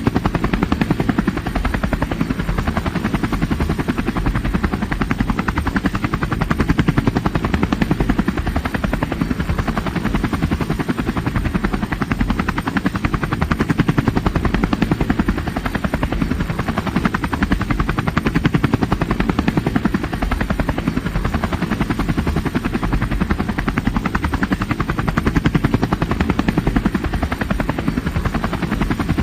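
Helicopter rotor running steadily, a fast, even chopping of blade beats with no change in speed.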